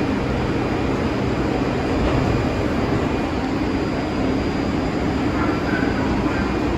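New York City subway train running, a loud, steady rumble of wheels and traction motors.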